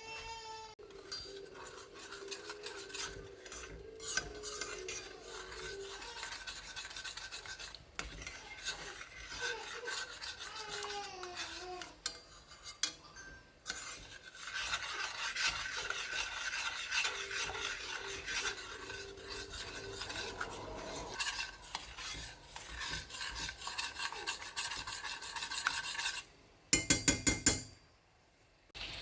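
Continuous rasping and scraping of food preparation by hand, with a quick run of about eight loud sharp knocks near the end.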